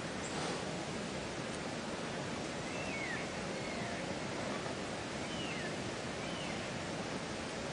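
Steady hiss with a few faint, short downslurred bird whistles, about three, five and a half and six and a half seconds in.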